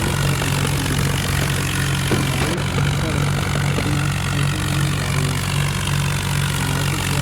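Vehicle engine running steadily at a constant speed, a low even hum with no revving or change in pitch.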